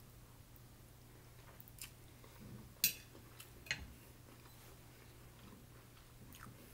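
Faint chewing of a mouthful of rice noodles, with two sharp clicks a little under a second apart near the middle as a metal fork is set down on the plate.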